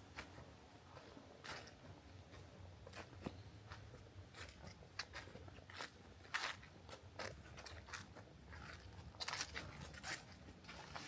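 Footsteps crunching on a dry forest trail, short crisp steps at an uneven walking pace.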